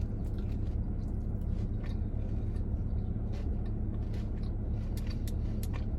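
Close-up chewing of a crunchy fried Korean corn dog, many small crisp crunches, over a steady low hum.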